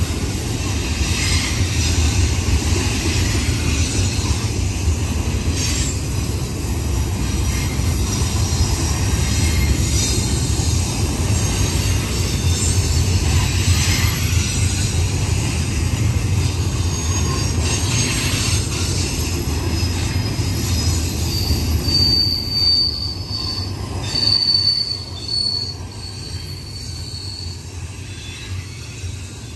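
Freight train's double-stack intermodal cars rolling past with a steady low rumble of wheels on rail. About three-quarters of the way in, high wheel squeal rings out in a few short stretches, then the sound eases off.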